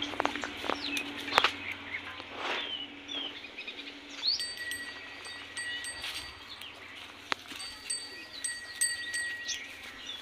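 Birds chirping, with a steady high ringing tone that comes in about halfway through and breaks off briefly a few times. A few sharp knocks and rustles are heard, the loudest about a second and a half in.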